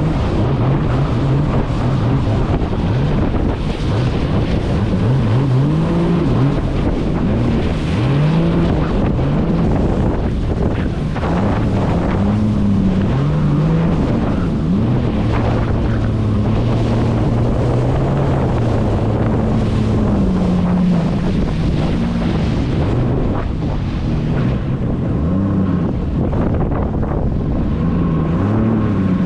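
Jet ski engine running under way, its pitch rising and falling again and again with the throttle, under steady wind noise on the microphone.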